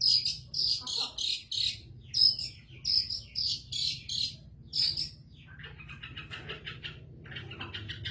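Long-tailed shrike (cendet) singing vigorously: loud, harsh, high notes about two a second, changing about halfway through to a faster, lower chattering trill that breaks off briefly near the end.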